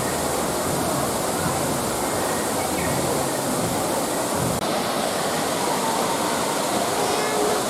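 Steady rushing of falling water, an even unbroken noise.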